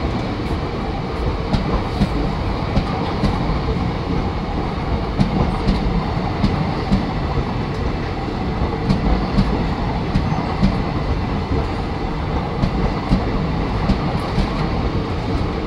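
A rake of NMG covered freight wagons passing close by: a steady rumble of steel wheels on the rails, broken by frequent sharp clacks as the wheels cross rail joints.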